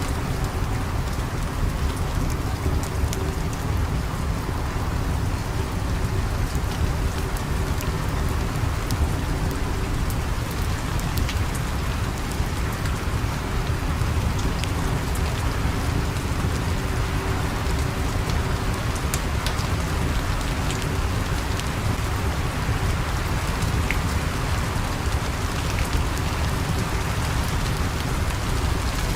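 Steady rain with a deep low rumble beneath it, and scattered sharp crackles and pops of a wood fire.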